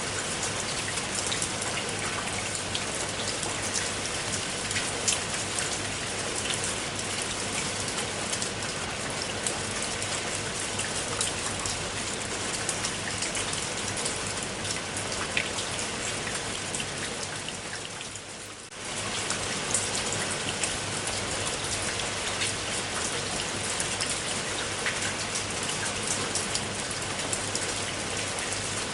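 Steady rain, with many individual drops ticking sharply on a surface over an even hiss. About two-thirds of the way through it fades briefly and then comes back suddenly at full strength.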